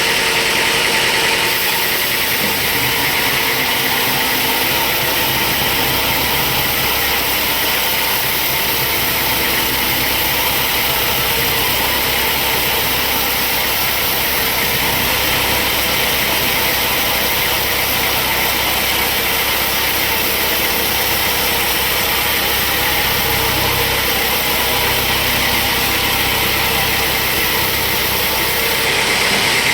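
Sawmill machinery running steadily: a continuous engine hum under an even hiss, with no clear starts or stops.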